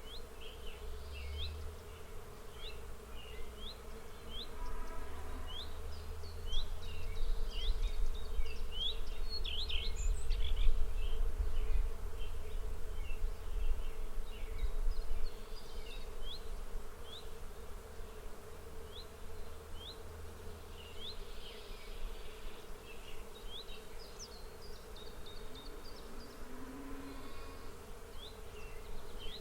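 Outdoor field ambience: a steady insect buzz, like bees, under many short, quick bird chirps. A low rumble swells for several seconds in the middle.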